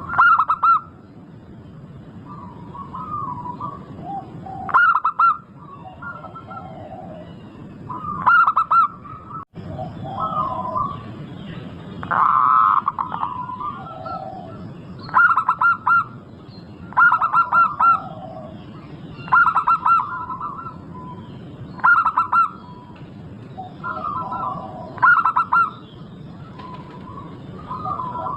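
Zebra doves (perkutut) singing: loud phrases of short, rapid cooing notes repeated every two to four seconds, with softer coos in between.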